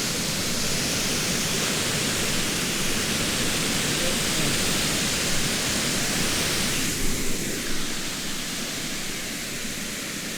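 Steady rush of falling water, an even hiss that softens a little about seven seconds in.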